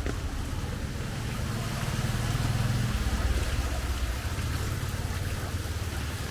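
Rain hissing on a wet street under the low rumble of traffic engines, swelling for a second or so about two seconds in as a vehicle passes close by.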